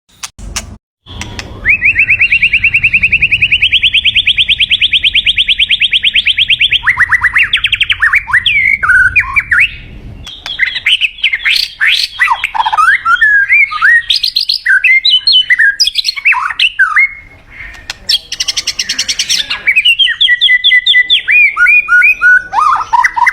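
White-rumped shama singing. A long, rapid, buzzy trill comes first, then a run of varied rich whistles and warbles. Near the end there is a short harsh rasping note, and after it another rapid trill.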